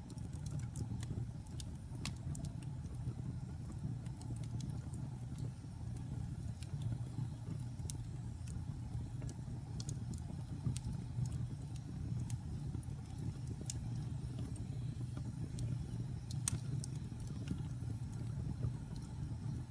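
Wood fire in a fireplace burning with a steady low rumble of flames and irregular sharp crackles and pops of burning logs, one pop louder than the rest near the end.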